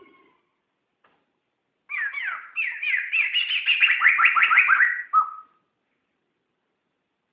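Poksay (laughingthrush) singing: starting about two seconds in, a rapid run of quick, falling whistled notes lasting about three and a half seconds, closed by one short lower note.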